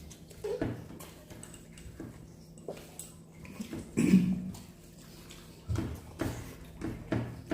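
Eating sounds: mouth noises and scattered clicks and knocks of hands and dishes, with a short voiced sound about four seconds in and a few duller knocks near the end.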